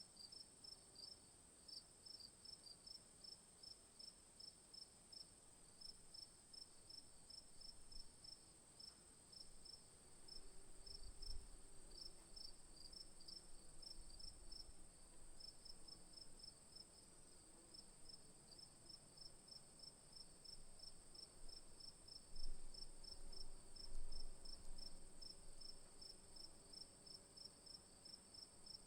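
Insects chirping: a steady high-pitched drone with a quick, even run of chirps, several a second, going on throughout. A few soft low bumps come about a third of the way in and again later on.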